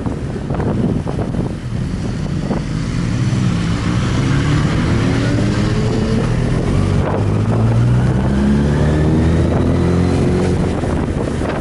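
Motorcycle engine running under way, its pitch climbing steadily through the second half as it accelerates, with wind rushing over the microphone.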